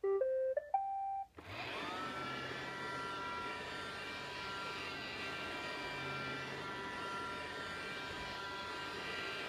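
Roomba robot vacuum playing its short start-up tune of three rising beeps, then its vacuum motor and brushes spinning up. The whine rises briefly as it starts, then the Roomba runs with a steady whirr.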